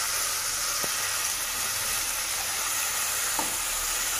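Chicken pieces with onion and green chillies sizzling in hot oil in a non-stick pot while being stirred with a silicone spatula: a steady frying hiss, with a couple of faint knocks.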